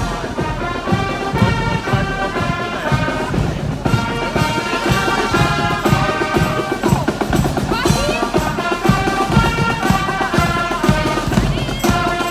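Marching band playing a march, a melody carried over a steady beat of drums.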